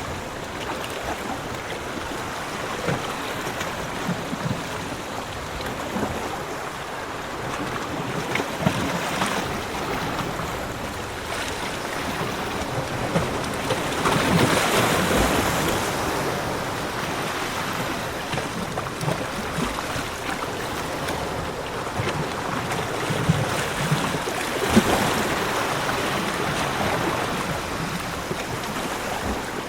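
Sea waves breaking and washing on a beach, a steady surf wash with swells that build and fade; the largest swells come about halfway through and again near the end.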